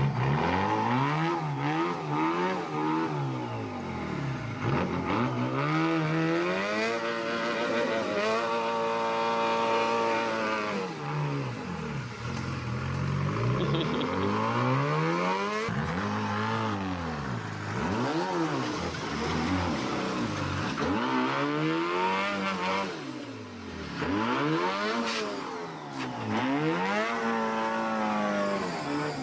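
Antique Dodge truck's Detroit Diesel engine being revved hard over and over, its pitch climbing and falling every couple of seconds, with one longer stretch held at high revs.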